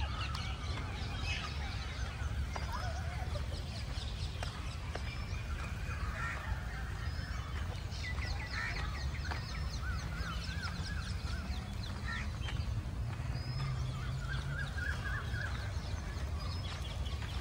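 Birds calling, with many short overlapping calls and chirps scattered throughout, over a steady low rumble.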